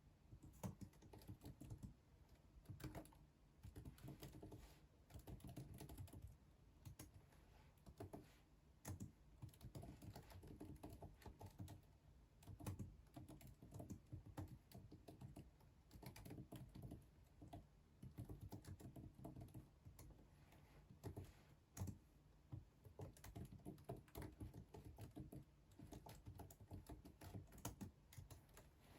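Typing on a computer keyboard: faint key clicks in irregular runs, with short pauses between them.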